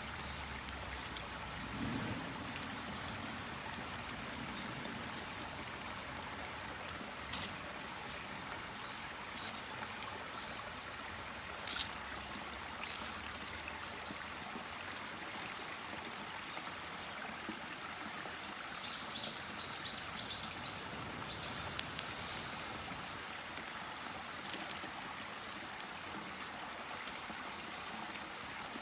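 Steady sound of running water, with scattered sharp clicks and a short run of high chirps about nineteen seconds in.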